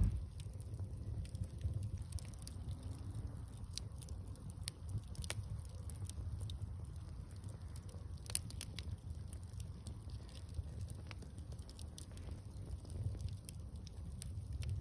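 Wood bonfire crackling, with irregular small pops and snaps over a low, steady rumble, and one sharper pop about eight seconds in.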